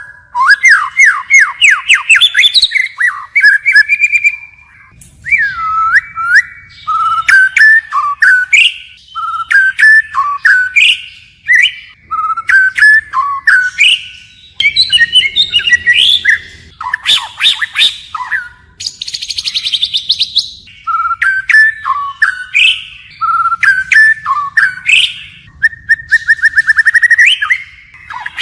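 White-rumped shama singing a varied song, changing phrases continuously: loud whistled notes, fast rising trills and pitch sweeps with sharp clicks, in phrases broken by short pauses. About two-thirds of the way through it gives one harsh buzzy note.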